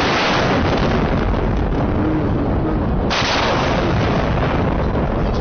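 Nuclear explosion blast: a loud, continuous rush of noise that fills everything from deep rumble to hiss. A second sudden surge hits about three seconds in.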